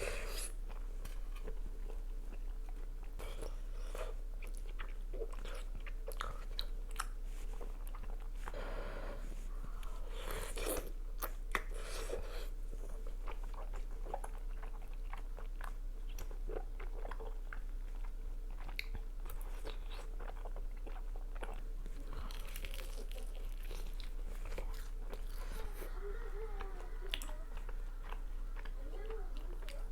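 A person eating close to the microphone: chewing and biting with frequent crunches and wet mouth clicks, over a faint steady hum.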